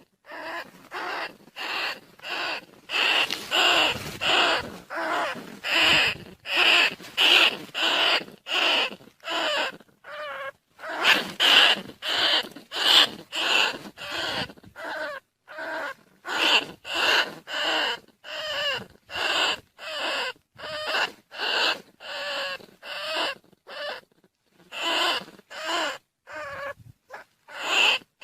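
Rat squeaks played as a decoy call to lure field rats and bandicoot rats: a fast, unbroken series of short, shrill squeaks, about two a second.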